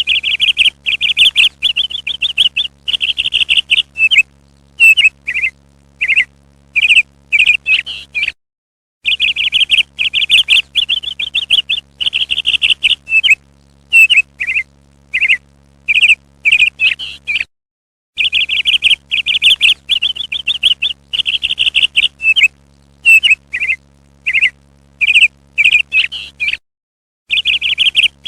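Parrot calls from a recording played on a loop: a run of rapid, high chattering trills, then a string of short separate chirps. The same sequence of about nine seconds repeats three times, with a brief dead-silent gap between repeats.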